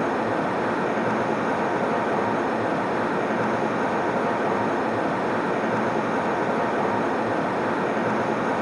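Airliner cabin noise in flight: a steady, even rush of air and engine noise that does not change.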